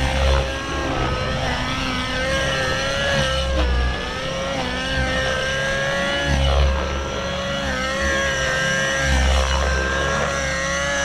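The glow nitro engine of a 50-size RC helicopter, an XLPower Nimbus 550 Nitro with a tuned pipe, running at high revs in flight on the throttle curve alone with no governor. Its pitch wavers slightly as the load changes through manoeuvres, and it is joined by a few bursts of low rumble.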